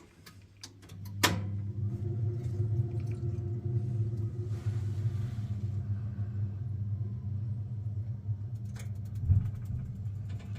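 Biasi combi boiler lighting: a few faint ignition clicks, then a short pop as the burner catches about a second in, followed by the steady low hum of the burner and fan. The ignition is quiet rather than a loud bang, the delayed ignition cured by replacing a cracked spark electrode.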